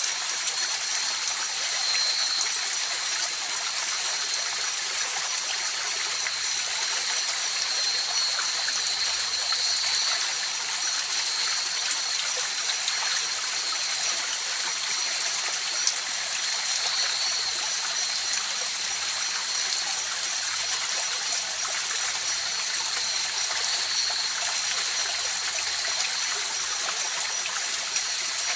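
River water flowing steadily over rocks, with a continuous rushing and trickling that does not change. A thin, steady high-pitched tone sits on top of it.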